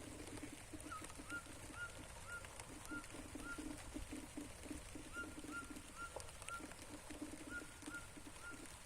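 Birds calling: runs of short, clear notes repeated about two a second, over a low pulsing cooing call.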